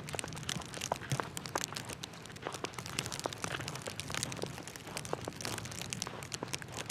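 Footsteps crunching through snow, a dense crackle of small sharp clicks throughout.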